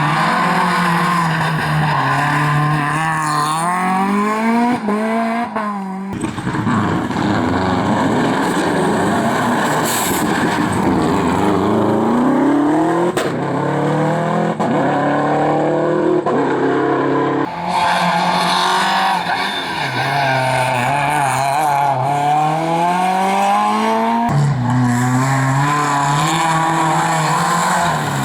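Rally cars driven hard on a stage, engines revving up and dropping back with gear changes and lifts. The sound changes abruptly about six seconds in, again past the middle and near the end, as one car gives way to another.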